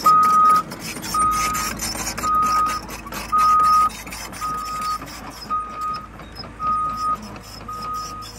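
Excavator travel alarm beeping: a single steady tone, about half a second long, repeating roughly once a second, about eight times. Underneath it the machine's diesel engine runs and there are many sharp clicks.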